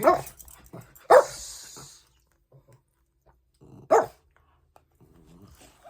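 Pet dogs barking: three short single barks, the first two about a second apart and the third near four seconds in.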